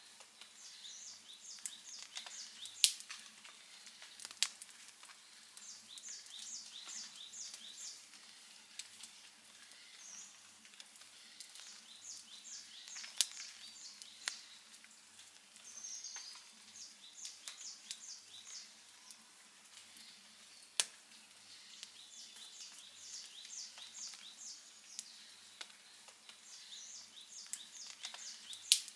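Outdoor wood fire crackling softly, with about five sharp pops spread through it. Short series of quick high chirps recur every few seconds.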